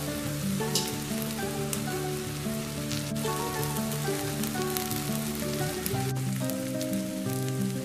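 Freekeh stuffing mixture sizzling in a stainless steel saucepan, a steady crackling hiss, under instrumental background music playing a simple melody.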